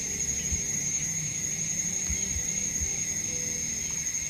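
Steady, high-pitched drone of insects, crickets or cicadas, in the forest, unbroken throughout, with faint low background sounds beneath.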